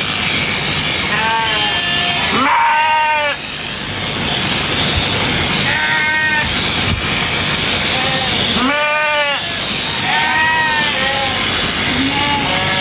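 Sheep bleating repeatedly, about six calls, the loudest about two and a half and nine seconds in, over a steady background noise.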